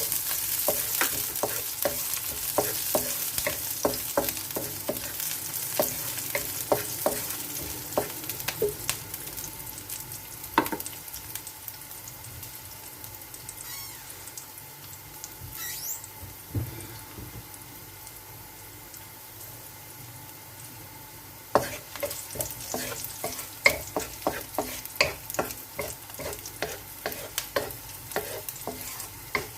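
Food sizzling in hot oil in a pan while being stirred with a utensil: a steady sizzle with frequent clicks and scrapes. The stirring eases off for a stretch in the middle and picks up again after about twenty seconds.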